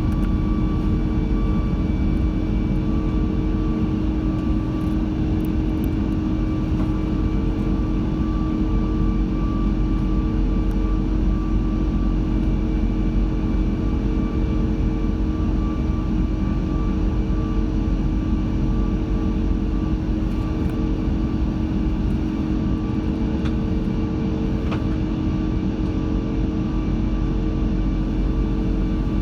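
Steady cabin noise of an Airbus A340-600 heard from inside the cabin: the Rolls-Royce Trent 500 engines and airflow make an even low rumble with a few constant tones over it, with no change in pitch or level.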